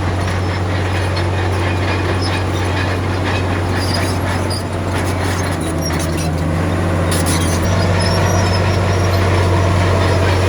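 Komatsu D53P crawler bulldozer's diesel engine running steadily under load, with metallic squeaks and clanks from its tracks, heaviest in the middle; the engine grows slightly louder toward the end.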